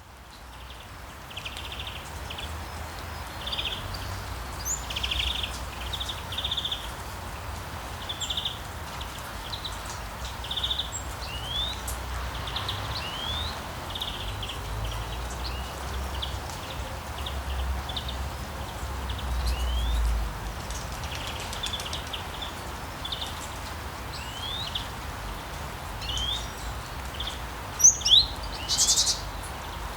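Songbirds chirping and calling over and over, with short trills and quick rising whistles, over a steady hiss of rain. Near the end a louder, higher burst of calls stands out.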